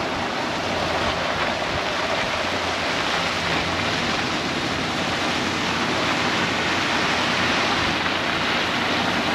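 Soybean plants rustling steadily as someone pushes through waist-high rows, leaves brushing against legs and the camera.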